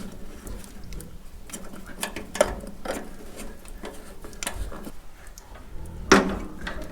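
Small metal clicks, taps and knocks of parts being handled while a tractor's fuel sediment bowl with its filter screen is refitted, with two sharper knocks, one about two seconds in and one near the end, over a steady low hum.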